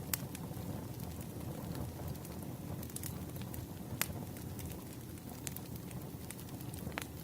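Campfire burning: a steady low rumble of flames with scattered sharp crackles and pops of burning wood, the strongest about four seconds in.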